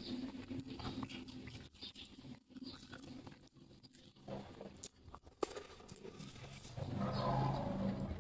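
Close-miked chewing with irregular crunches, as of crispy fried chicken being bitten and eaten. The mouth sounds get louder and fuller in the last second or so.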